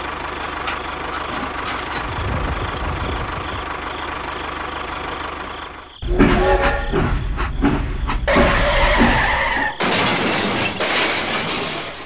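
A machine running with a steady mechanical noise. About halfway through it cuts suddenly to a louder, rougher stretch with a few short tones in it.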